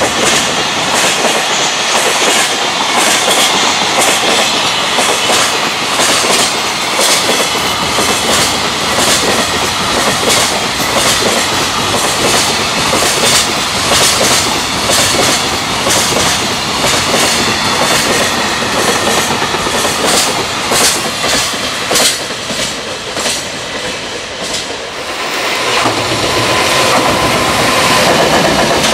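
A long freight train's container flat wagons pass at speed, their wheels clattering over rail joints in a steady run of rapid repeated beats. About 25 seconds in the sound dips and shifts as a JR Freight EF210 electric locomotive heading the next train passes, adding a deeper rumble and a steady humming tone.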